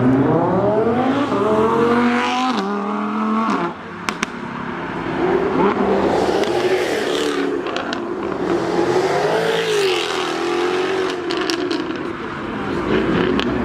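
Jaguar F-Type sports car engine revving hard, its note climbing for a few seconds before the throttle is lifted, followed by sharp exhaust pops and crackles. The revs then rise and fall in waves, with more scattered exhaust cracks.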